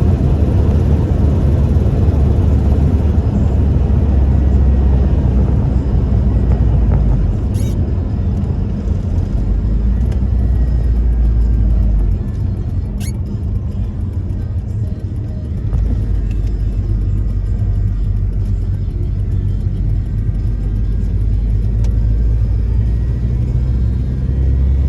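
1998 Toyota Tacoma 4WD pickup driving, its engine and road noise a steady low rumble that eases for a few seconds past the middle. Two sharp knocks come about seven and a half and thirteen seconds in.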